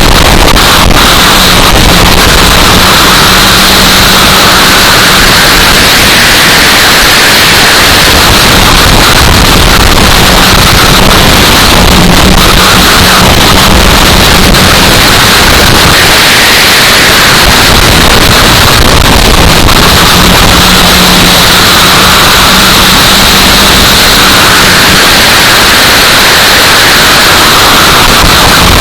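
Loud wind noise on the microphone, overloading it, with the race cars' engines faintly audible underneath, swelling and fading every several seconds as the cars pass.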